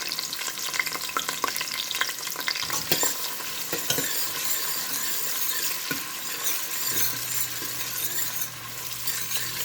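Onions sizzling as they fry in hot ghee and oil in a pan, stirred with a utensil that clicks and scrapes against the pan. A faint low hum joins about seven seconds in.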